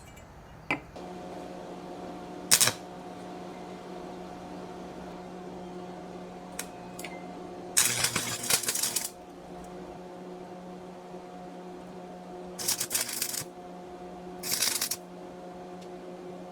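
A motor-driven power tool hums steadily, with a couple of sharp clicks. Three harsh bursts of about a second each sound as it bites into the work.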